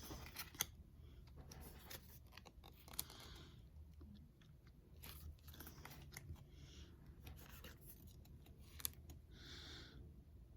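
Quiet handling of Pokémon trading cards: several soft sliding swishes of cards against each other and three sharp ticks.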